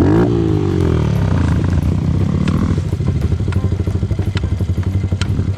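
Dirt bike engine dropping off a rev in the first second, then running at low, steady revs. A few sharp clicks come about a second apart in the second half.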